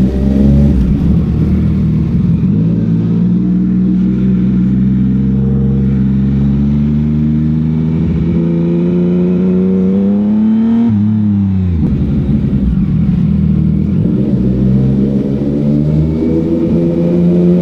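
CFMOTO 675's three-cylinder engine and exhaust under way at speed. The revs climb slowly for about ten seconds, fall away sharply about eleven seconds in, then climb again.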